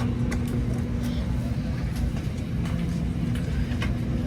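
Airbus A320 cabin noise before takeoff: a steady low hum with a few faint clicks, and a second low tone joining about three and a half seconds in.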